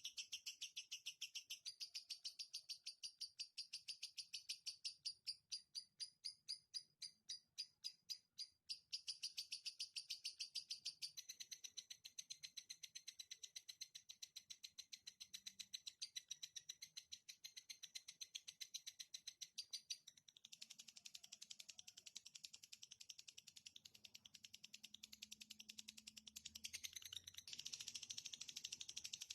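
Songbird singing a long, rapid trill of quickly repeated high notes, played as a training recording for cage birds. The notes spread out into slower, separate pulses about a quarter of the way in, then speed back up into a dense trill.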